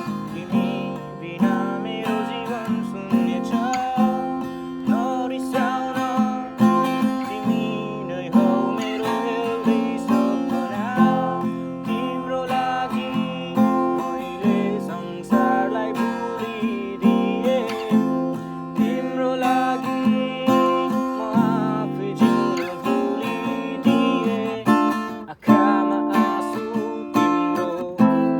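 Acoustic guitar strummed in a steady rhythm, with a singing voice over it; the playing breaks off briefly a little before the end.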